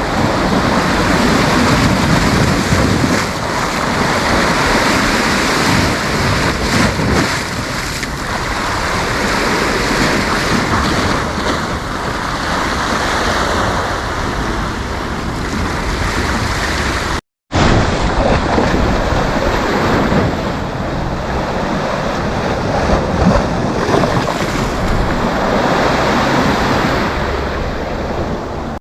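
Sea waves breaking and washing up the beach in a continuous surging rush, with wind buffeting the microphone. About two-thirds of the way through, the sound cuts out completely for a fraction of a second.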